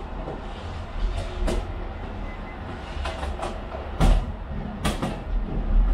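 Aerial fireworks going off: a run of sharp bangs with deep booms, the loudest about four and five seconds in.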